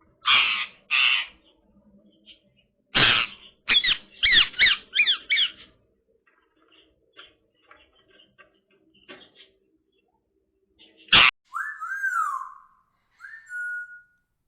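Indian ringneck parakeet calling: harsh squawks and a quick run of screeching calls, then soft scattered clicks. Near the end comes one loud squawk, followed by a whistle that rises and falls and ends on a short held note.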